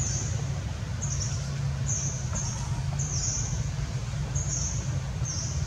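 Bird chirping: about seven short, high chirps, each dropping slightly in pitch, repeating every half second to a second over a steady low hum.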